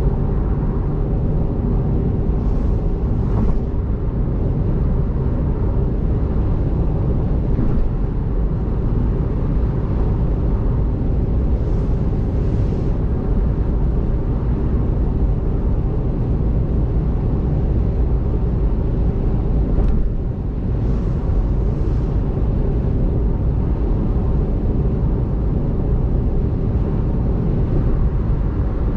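Steady low rumble of a car's road and tyre noise on a rain-soaked expressway, heard from inside the car, with faint paired swishes about every nine seconds.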